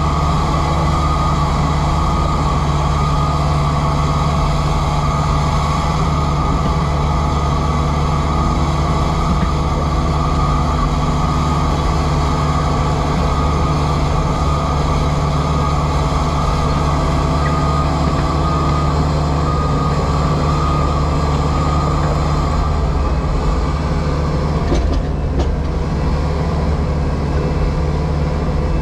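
JCB Pothole Pro's diesel engine and hydraulics running steadily, heard from inside the cab, with a constant low drone and a steady whine over it.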